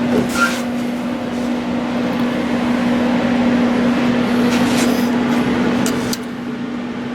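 A shop machine or power tool running steadily with a constant hum over a loud rushing noise, which drops off about six seconds in.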